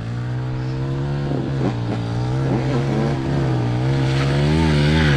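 Dirt bike engine running under throttle, its note wavering up and down as the rider works the throttle, getting louder toward the end.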